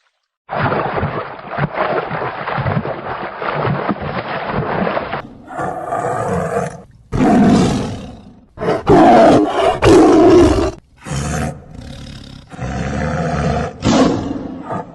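A run of loud animal calls cut together from several short clips: one continuous call of about five seconds, then a series of shorter pitched calls with abrupt breaks between them.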